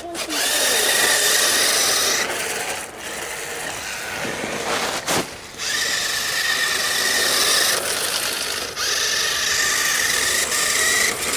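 RC drift car running in several surges of throttle: a steady high motor whine over the scrubbing hiss of its hard drift tires sliding across the ground, easing off about two seconds in and again around the middle before picking back up.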